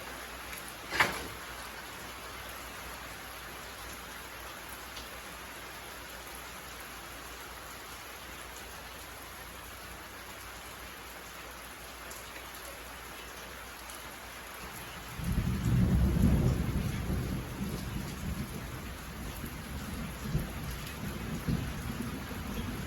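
Steady rain falling, with a single sharp tap about a second in. About fifteen seconds in, a low rumble of thunder sets in suddenly and rolls on, rising and falling.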